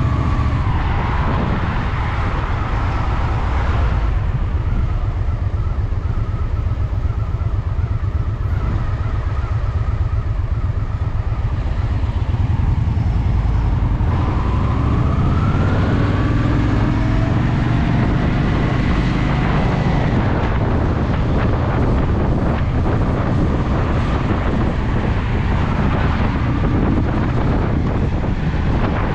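Honda Shadow VT750's V-twin engine running on the road. Its pitch falls in the first couple of seconds, then rises steadily through the middle of the stretch and drops back, like an easing off, a long acceleration and a gear change.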